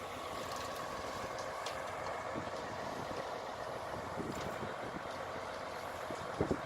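An engine running steadily, with a few light clicks.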